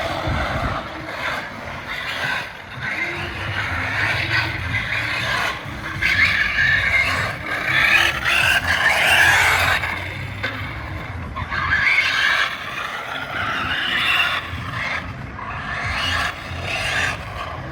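Electric radio-controlled car driving: its motor whines up and down with the throttle, with tyres scraping and skidding over the ground.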